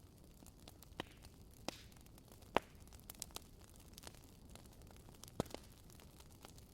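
Wood fire crackling: scattered sharp pops and snaps of burning logs over a soft steady hiss, the loudest pop about two and a half seconds in.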